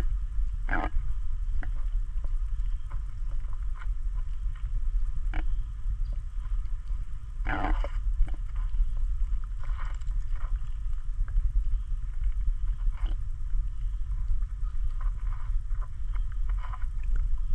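Frogs croaking with short scattered calls every second or few, over a steady low rumble.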